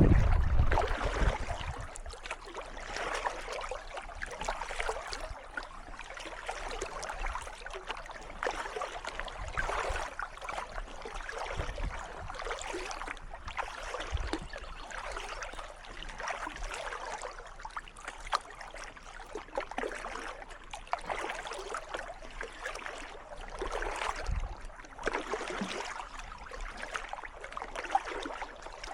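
Kayak paddle strokes dipping and splashing in calm water, one gentle splash roughly every two seconds, with water trickling off the blades between strokes. A low rumble fades out in the first second or so.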